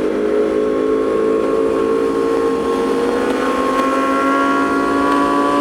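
Motorcycle engine running under way, its pitch climbing slowly as it accelerates.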